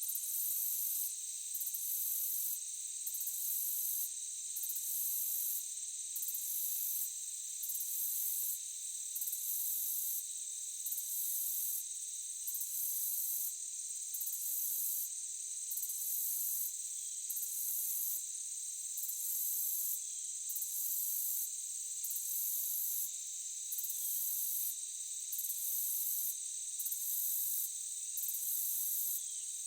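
Forest insect chorus: a steady high-pitched drone of chirring insects, with one higher trill that pulses on and off about every second and a half.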